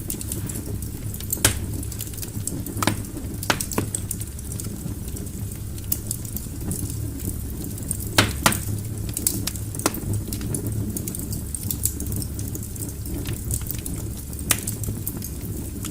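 Wood fire burning in a fireplace: a steady low rumble of flames with irregular sharp crackles and pops from the burning logs, a few of them louder, around one and a half, three and eight seconds in.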